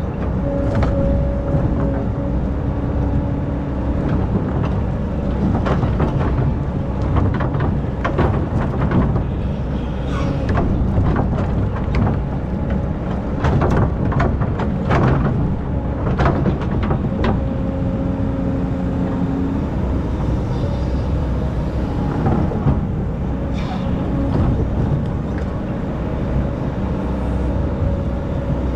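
Excavator's diesel engine running steadily under load, with repeated knocks and scraping as the bucket digs sand, and a steady whine that comes and goes.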